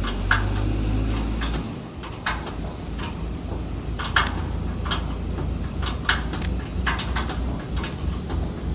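Irregular metallic clinks and knocks from hand work on a band saw cutting machine's parts, a dozen or so sharp strikes spread unevenly, over a steady low rumble.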